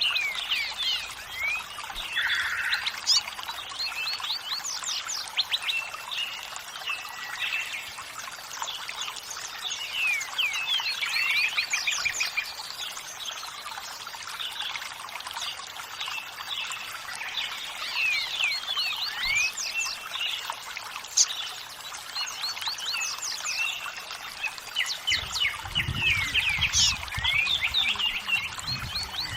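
Running water trickling steadily under a dense chorus of songbirds chirping and twittering in quick, pitch-sweeping notes. A low rumble joins in near the end.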